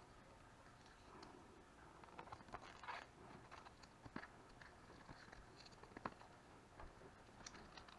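Faint handling noise: scattered light clicks, taps and scrapes of small objects being worked by hand, sharpest a little after four seconds and again about six seconds in.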